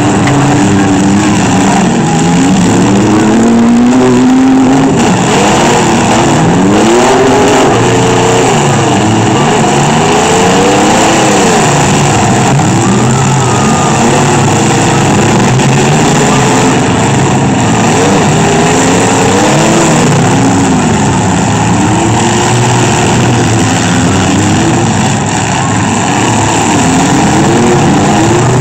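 Several minivan, pickup and SUV engines revving hard at once in a demolition derby, their pitches rising and falling over one another as the vehicles accelerate and back up.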